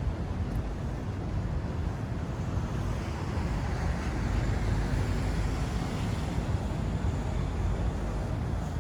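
City street traffic: steady road noise with a low rumble, swelling a little louder about halfway through as a vehicle passes.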